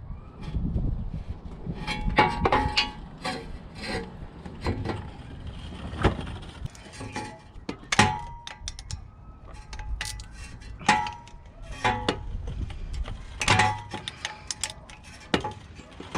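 Metal hand tools clinking against metal parts: a string of separate sharp clinks, some with a short ring, about one every second or so.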